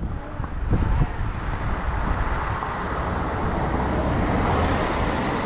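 A motor vehicle passing on the road, its engine and tyre noise swelling over a few seconds and then easing.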